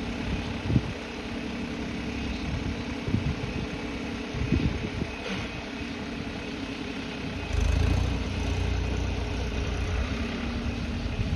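Massey Ferguson 246 tractor's diesel engine running steadily, with a louder low rumble setting in about two thirds of the way through.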